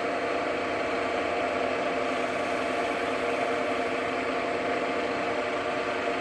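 JFMT lathe running at steady speed after starting up: an even motor and spindle hum of several steady tones with a rough hiss over it.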